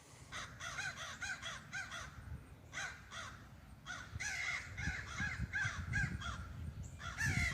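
Crows cawing repeatedly in quick runs of harsh calls, several caws a second, pausing briefly between bouts; the calling is agitated, the crows upset about something.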